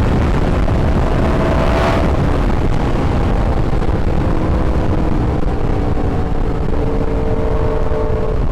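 Yamaha R1 inline-four sport-bike engine running on the move under a heavy rush of wind noise. The engine note drops about two seconds in, then slowly climbs.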